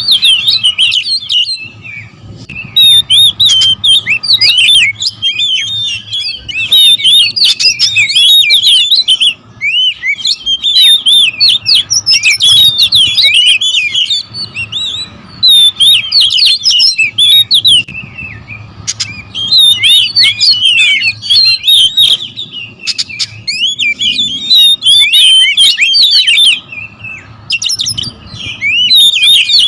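Several oriental magpie-robins (kacer) singing and calling over one another in rapid, overlapping chirps and whistles: a noisy territorial squabble. The calls come in loud bursts of a few seconds with brief lulls between.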